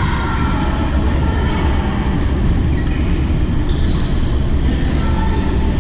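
Steady low rumble of a sports hall, with short high squeaks of shoes on the court floor and a sharp shuttlecock hit about four seconds in.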